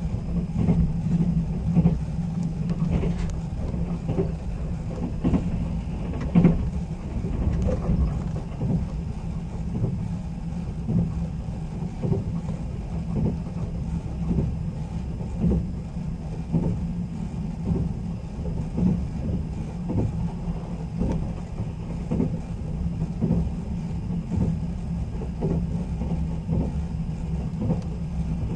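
Running noise heard inside a passenger car of a sleeper express train at speed: a steady low rumble of wheels on rail, with frequent short clacks from the wheels crossing rail joints.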